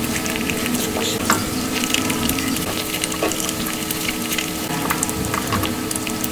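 Close-miked mukbang eating sounds sped up five times: a dense, rapid crackle of chewing and wet mouth clicks over a faint steady hum.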